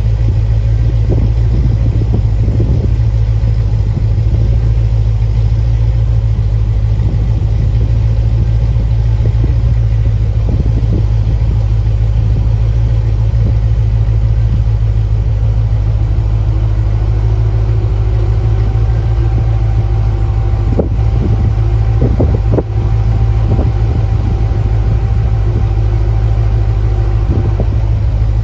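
HSV Clubsport R8's 6.2-litre LS3 V8 running steadily at constant revs, a deep, even exhaust drone with no revving. A faint higher whine sits over it through the second half.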